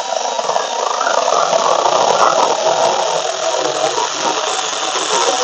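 A Tomyvic 6-inch cordless 21 V mini electric chainsaw running steadily under load as its chain cuts through a thick branch.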